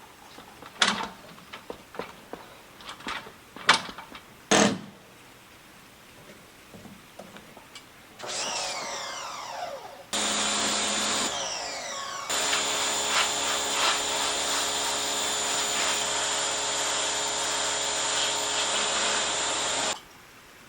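A few scattered knocks, then a pressure washer's motor and pump running loud and steady with a spraying hiss for about ten seconds, cutting off suddenly near the end.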